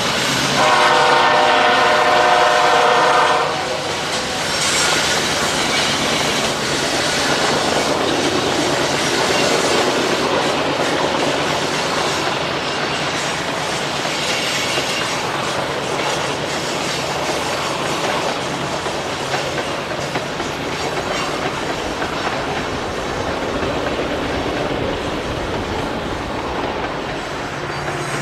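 Freight train locomotive horn sounding one blast of about three seconds, then the steady rumble and clatter of the train rolling past, its wheels clicking over the rail joints.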